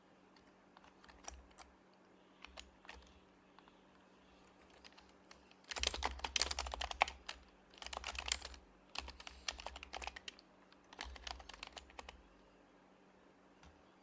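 Typing on an HHKB Professional Hybrid Type-S keyboard with its silenced Topre capacitive switches. A few scattered keystrokes come first, then fast typing in bursts from about halfway through, which stops near the end.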